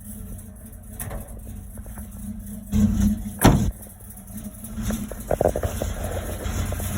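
1991 Dodge D150's throttle-body-injected 318 LA V8 running through headers and a single-exit Flowmaster Super 44 muffler, with a steady low exhaust rumble while it warms up after a cold start. There are two brief louder bursts a little before halfway, the second a sharp crack.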